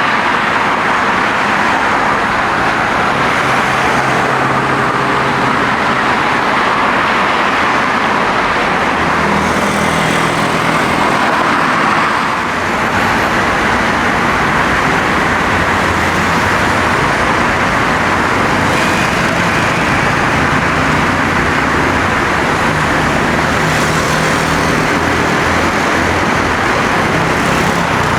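Steady loud roar of running engines, with low droning tones that come and go.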